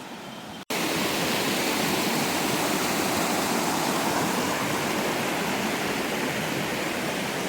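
Waterfall pouring: a loud, steady rush of falling water that comes in suddenly less than a second in.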